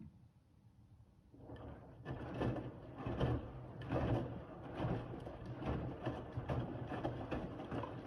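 Bosch WAV28G93 front-loading washing machine in its main wash: after a pause, the drum starts turning about a second and a half in, and wet towels tumble with a swishing surge a little more than once a second.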